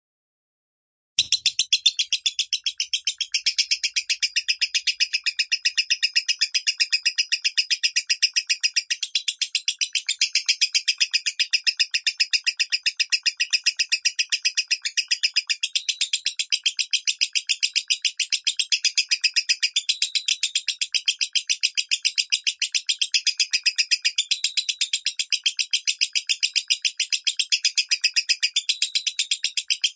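Lovebird singing the 'minor' song: one continuous rapid, even chattering trill of high chirps with no pauses. It starts about a second in.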